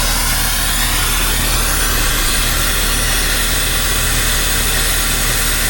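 Brazing torch burning with a steady, loud hiss while a copper refrigerant line is brazed, over a steady low hum.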